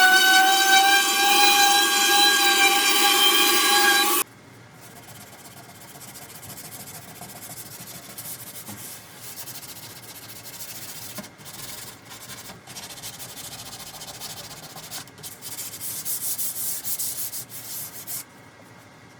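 A power tool's motor whines steadily at one high pitch for about four seconds, then cuts off suddenly. Then comes quieter hand sanding on wood, a steady rubbing broken by a few short pauses.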